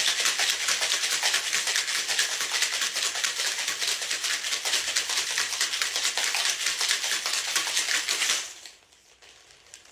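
Ice cubes rattling inside a cocktail shaker as it is shaken hard and fast: a dense, rapid clatter that stops suddenly near the end.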